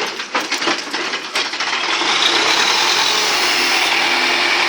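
Universal U650 tractor's diesel engine running. It rattles irregularly for the first second and a half, then settles into a steady, even noise.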